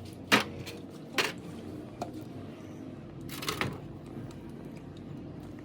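A handful of sharp clicks and knocks from tools and parts being handled during work on a power steering gearbox, with a quick double knock about three and a half seconds in.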